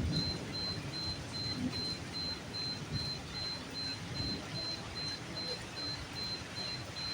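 Steady night rainfall with a fluctuating low rumble underneath. A faint, high, short chirp repeats evenly about three times a second.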